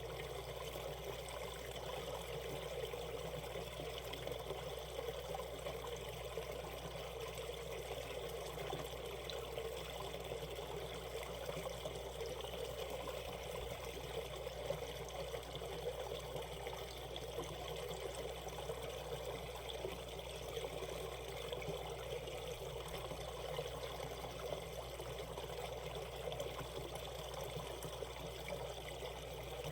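Shallow mountain stream running steadily over rocks, a continuous splashing and trickling.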